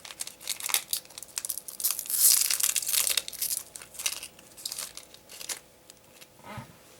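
Foil trading-card booster pack crinkling and being torn open, with papery crackling that is densest a couple of seconds in and dies away after about five and a half seconds.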